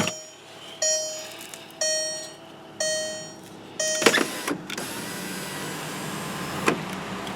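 A 2004 Volkswagen Beetle's warning chime dings about once a second, four times, while the car is being closed up. About four seconds in there is a loud thud, like a car door shutting, and the chime stops. A lighter knock follows later over a steady low hum.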